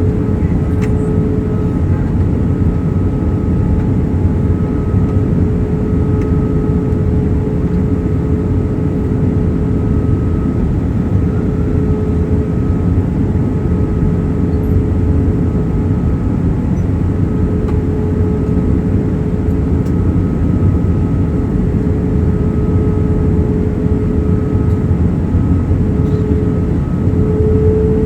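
Steady pink noise, an even rush weighted toward the low end, with a faint steady hum running through it.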